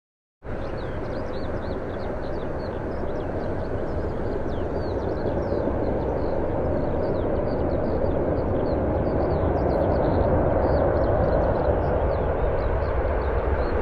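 Aircraft engine noise, a steady rumble that starts abruptly and slowly grows louder, with many short high chirps over it.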